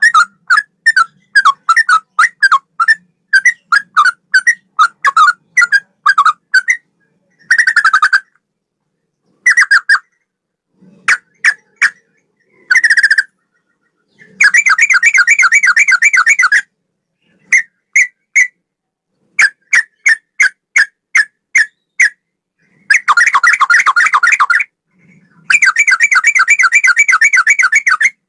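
Sooty-headed bulbul (trucukan) singing in a style reminiscent of the straw-headed bulbul. Runs of short, clear whistled notes at about three a second alternate with longer trilled phrases lasting two to three seconds.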